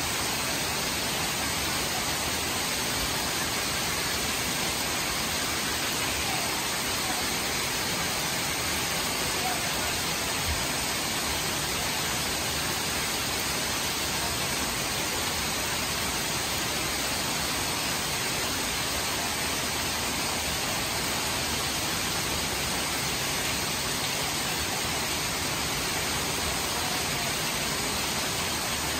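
Heavy rain pouring steadily onto a flooded street, a dense, even hiss that does not let up.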